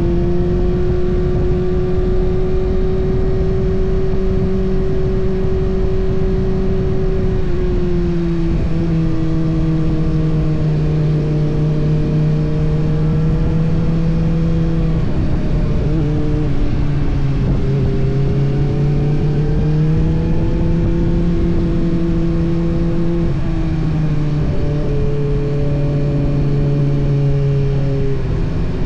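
Kawasaki ZX-6R's 636 cc inline-four engine running under way, heard from a tank-mounted camera over wind and road noise. Its pitch holds steady, then dips and rises again a few times as the throttle eases and opens.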